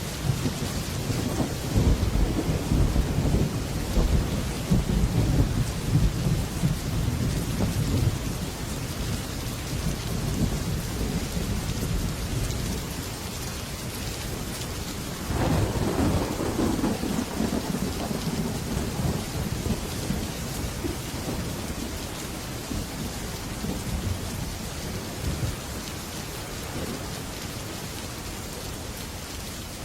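Heavy rain falling on a metal roof. Thunder rumbles low through the first several seconds, and a second thunderclap breaks about halfway through and rolls away over a few seconds.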